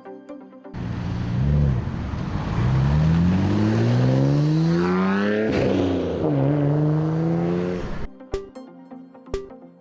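Japanese sports car engine and exhaust: a short throttle blip, then a long pull with the pitch rising steadily, an upshift about six seconds in where the pitch drops, and a second rising pull. It cuts off suddenly about eight seconds in, and electronic music with a ticking beat takes over.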